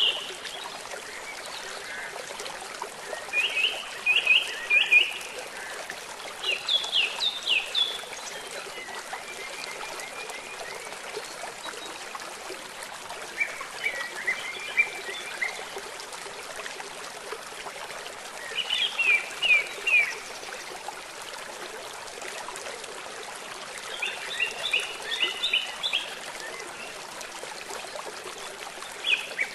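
Steady rush of running water, with a bird calling in short phrases of quick high chirps, about six phrases spaced a few seconds apart.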